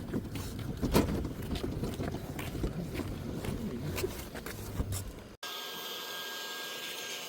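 Scattered knocks and footsteps as gear is carried. About five seconds in, the sound cuts off sharply and a small electric motor takes over, whirring steadily with a faint high whine, most likely the small portable dust collector.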